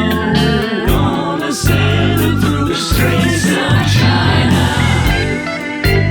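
Rock band music with singing: backing voices held over electric guitar, bass and drums.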